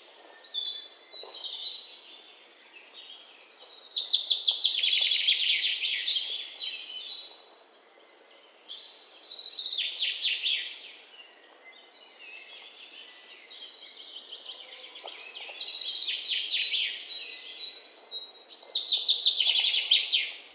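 Songbirds chirping and trilling in several bursts of rapid high notes, with quieter pauses between them, over a faint hiss.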